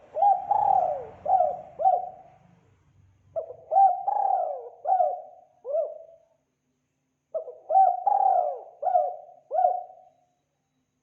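Spotted dove (tekukur) cooing: three phrases of four or five low, curving coos each, a few seconds apart.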